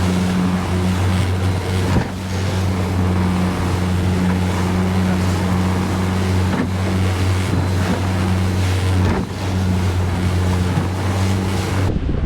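Boat motor running steadily under way, with wind and water rushing past and the occasional knock of the hull on a wave; the motor sound stops abruptly near the end.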